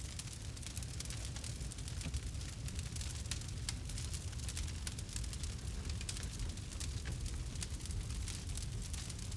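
Campfire crackling, with many irregular sharp pops and snaps from the burning wood over a steady low rumble.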